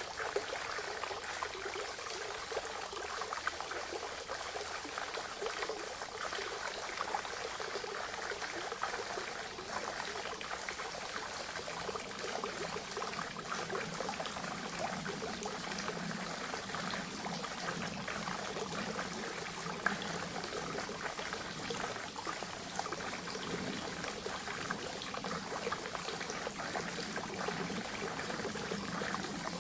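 Spring water trickling and splashing steadily into a forest pond, a continuous bubbling patter of small flows. A deeper gurgle joins about twelve seconds in.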